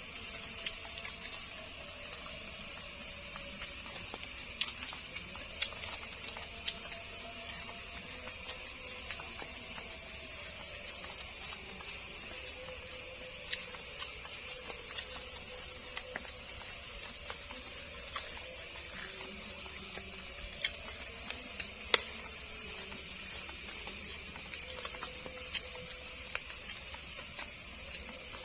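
Steady high-pitched chorus of night insects, with scattered light clicks of eating utensils as a meal is eaten. One sharper click comes a little over three-quarters of the way through.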